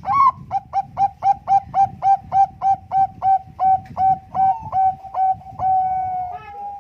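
Zebra dove (Bangkok-type perkutut) singing: a rapid run of about twenty short, clipped coos at roughly four a second, slowing a little and ending in a longer drawn-out note near the end.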